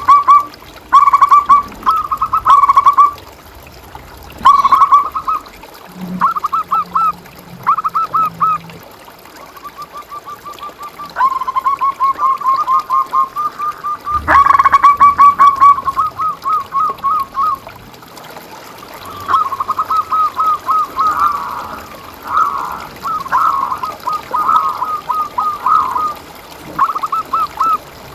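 Zebra dove (perkutut) cooing: repeated phrases of quick, rippling notes, one after another with short pauses, busier and overlapping in the second half.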